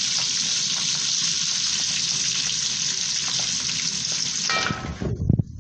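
Whole spices (cinnamon stick and bay leaves) sizzling in hot oil and ghee in a pot, blooming before the rice goes in: a steady frying hiss that cuts off suddenly about four and a half seconds in, followed by a few low knocks.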